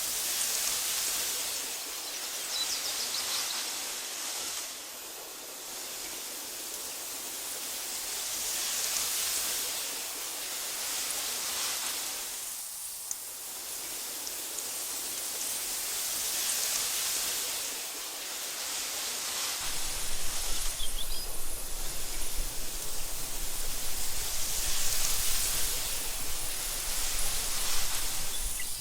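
Wind blowing through tall meadow grass, a soft rushing hiss that swells and fades in gusts every few seconds. About two-thirds of the way in, a low rumble joins and the gusts turn more uneven.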